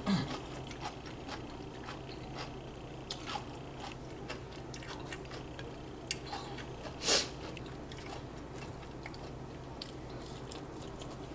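A person chewing and smacking close to the microphone while eating barbecue, with many small wet clicks and one louder burst about seven seconds in. A faint steady hum runs underneath.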